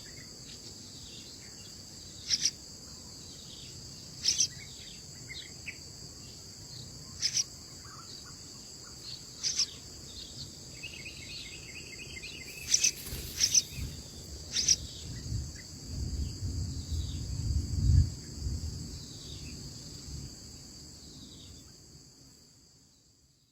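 Steady high-pitched insect chorus, with short sharp chirps about every two seconds and a brief run of quick notes partway through. A low rumble swells around two-thirds of the way in, and everything fades out near the end.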